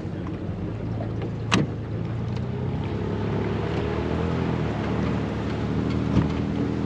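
Boat's outboard motor running steadily under way, with wind on the microphone. There is a sharp knock about a second and a half in and another near the end.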